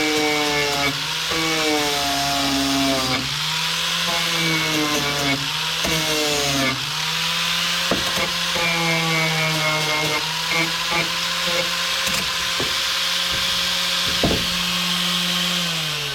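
A hand-held electric power tool working sheet metal. Its motor pitch sags each time it is bearing down and recovers between passes, about every second or two, over a steady hiss of abrasion. Near the end it is switched off and spins down with a falling whine.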